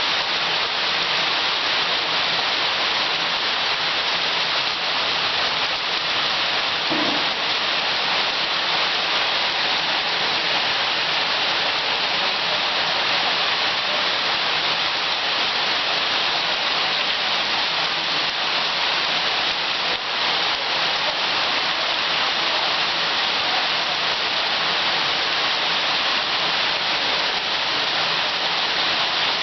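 Thunderstorm rain falling steadily, an even hiss that holds at the same level throughout.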